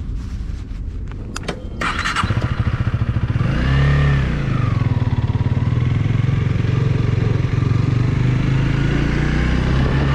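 Honda Rebel 300's single-cylinder engine starting about two seconds in, after a few clicks, then revved up and back down once and left idling steadily.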